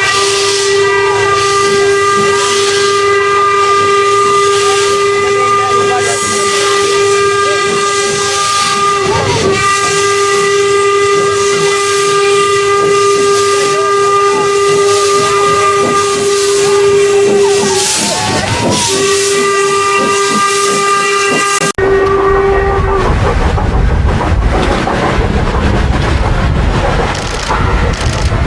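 Steam locomotive whistle blowing one long, steady note over hissing steam, with brief breaks about 9 and 19 seconds in. Near the end the whistle stops and a low rumble with wind noise is left.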